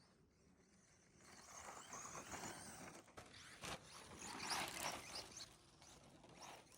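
Electric 4x4 short-course RC truck driving over snow, its tyres crunching, with a faint wavering motor whine. It grows louder after about a second and is loudest around four to five seconds in.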